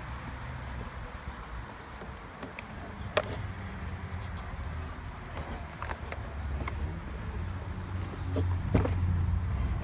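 A few sharp clicks and light knocks of plastic parts being handled while wiring is unclipped from an HVAC heater box, over a steady low rumble that grows louder near the end.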